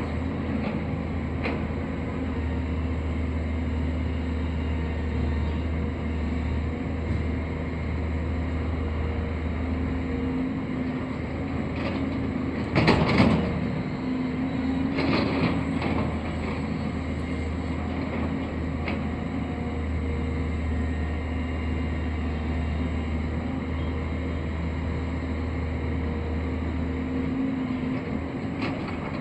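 Construction machine engine running steadily at a constant pitch, with two short, louder clattering bursts near the middle.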